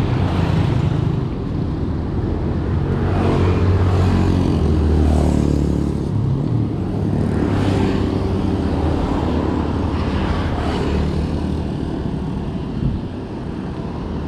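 Motor vehicle engines running on the road close by, with traffic passing and the engine pitch dipping once midway.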